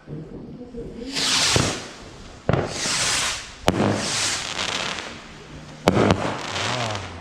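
New Year's Eve consumer fireworks going off: four loud hissing whooshes, each under a second, spaced about a second or two apart. Sharp cracks come at about 2.5, 3.7 and 6 seconds in.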